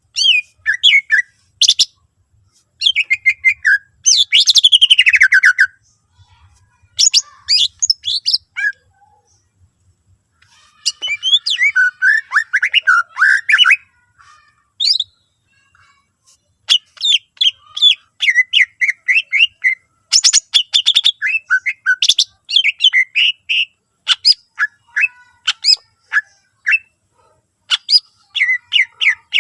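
Cucak ijo (green leafbird) singing in bursts of rapid chirps, trills and whistled glides, with short pauses between phrases. Its song is full of phrases mimicked from other birds.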